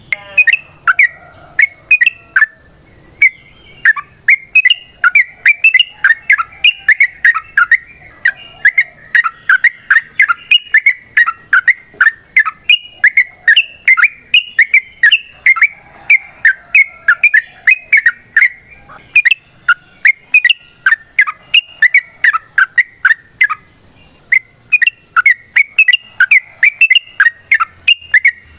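A yellow-vented bulbul sings a long, fast, unbroken chattering song of loud sharp notes, several a second, pausing briefly twice. A faint steady high-pitched whine runs behind it and steps higher about two-thirds of the way through.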